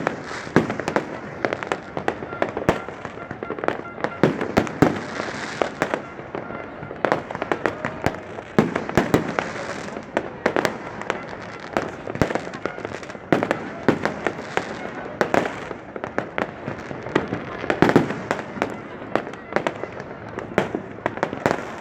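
Fireworks display: many bangs and crackles going off in quick, irregular succession.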